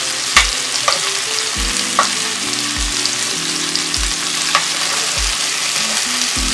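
Chicken pieces sizzling steadily as they fry in oil in a stainless-steel pan, with a metal spoon stirring them and clinking against the pan now and then.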